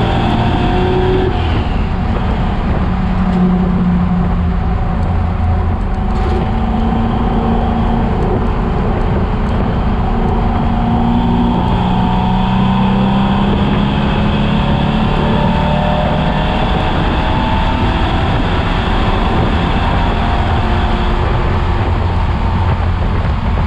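Chevrolet Chevelle's engine running hard on a race track, its pitch climbing steadily under acceleration and dropping back several times as the car shifts and slows for corners.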